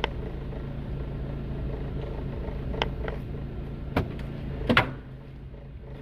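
Honda D16 four-cylinder engine in a 1991 Civic idling with a steady low hum, running rough just after its first cold start. A few short knocks and clicks come over it, the loudest a double knock near the end.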